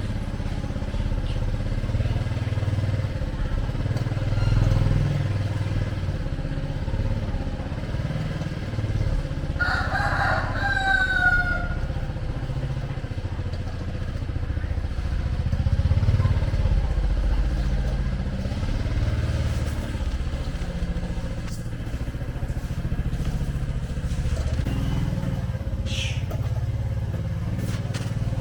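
Steady low rumble of motorcycle and vehicle traffic, with a rooster crowing once about ten seconds in.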